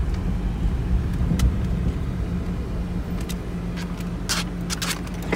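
Car engine running, heard from inside the cabin as a steady low hum, with a few short sharp clicks, most of them near the end.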